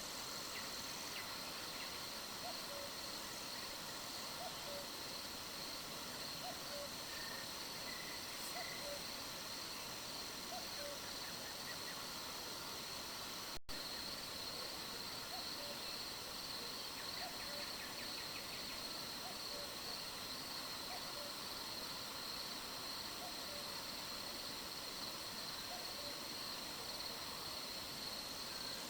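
Summer-night outdoor ambience: a steady high insect trill, with short low notes repeating every half second or so and a few faint higher bird notes. The sound cuts out for an instant about halfway through.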